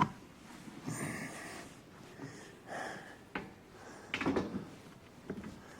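Knocks and clunks from a heavy lawnmower seat assembly being handled and set onto a zero-turn mower's frame: a sharp click at the start, a cluster of knocks about four seconds in and another near the end, with softer rustling noises between.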